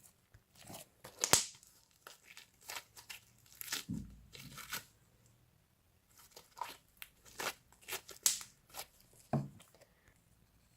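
Butter slime (shaving-foam fluffy slime with foam clay worked in) being stretched and kneaded by hand, giving irregular sticky crackles and small tearing pops, with a brief lull midway.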